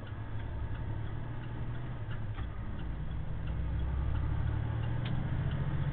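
Semi truck's diesel engine rumbling in the cab, slowly growing louder, with the turn signal ticking over it.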